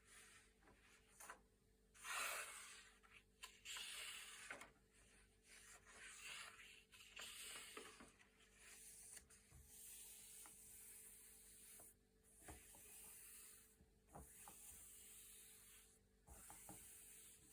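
Thick, glossy paper pages being turned one after another, each turn a soft swish and rub of paper with small crisp clicks as the sheets flex and settle.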